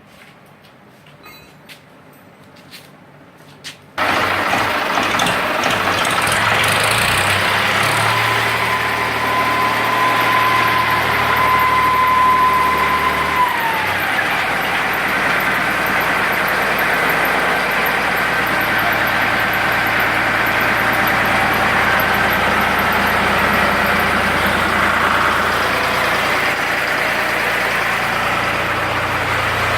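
A few faint clicks, then about four seconds in the Ford 3600 tractor's engine comes on abruptly and runs steadily while driving a generator. A steady high whine rides on it and drops in pitch about ten seconds later as the engine note changes.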